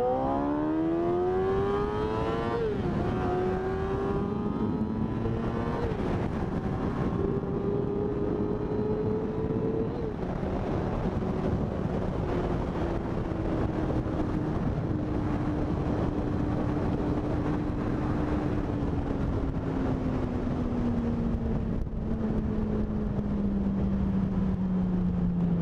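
2008 Yamaha R6 inline-four engine through the stock exhaust with catalytic converter and an SC Project CRT end can, under way: it revs up hard, drops in pitch at a gear change about 2.5 s in, pulls up again until about 10 s in, then falls steadily in pitch as the bike slows. The tone is muted by the catalytic converter, which the rider says soaks up the raspiness and bass.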